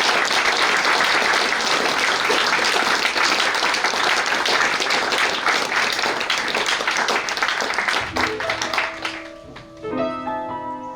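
Audience applauding steadily for about eight seconds, dying away as a piano begins playing a gentle interlude near the end.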